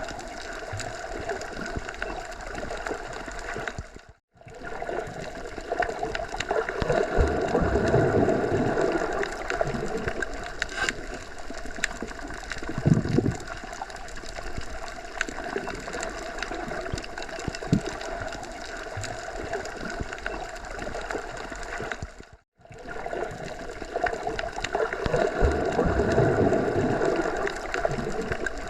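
Wind blowing through forest trees, a steady rushing that swells in two long gusts. The sound cuts out abruptly for a moment twice.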